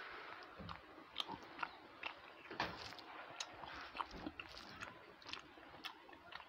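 Close-miked eating sounds of rice and curry eaten by hand: chewing and lip-smacking, with irregular wet clicks as the fingers work the food on the plate.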